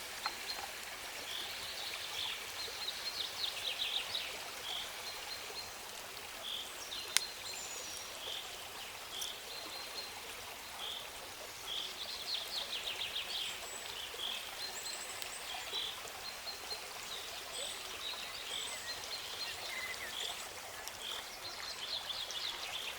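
Outdoor ambience of steadily running stream water, with a bird repeating a short high note every second or so and now and then a quick trill. A single sharp click about seven seconds in.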